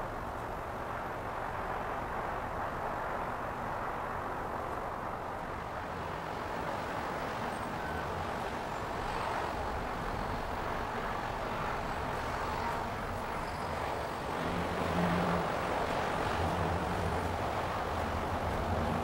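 Steady outdoor background noise: an even hiss with a low rumble that grows stronger in the last few seconds.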